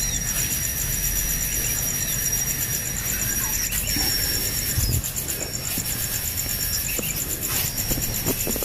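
Insects trilling steadily at a high pitch, a rapid even pulsing, over a low rumble; a thin high whine among them stops about five seconds in.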